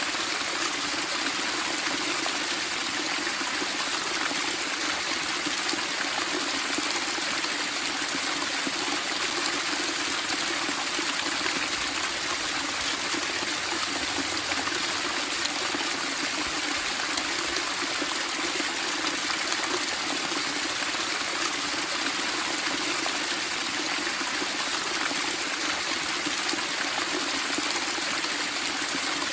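Running water babbling and splashing steadily, like a small stream.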